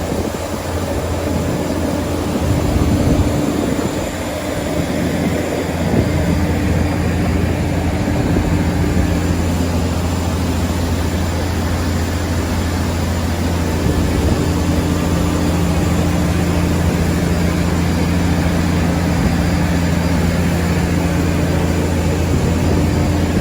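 Steady low drone of aircraft and ground machinery, with a few held low tones that run without a break.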